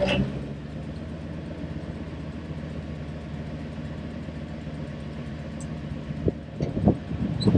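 An engine idling steadily, with a few short knocks near the end.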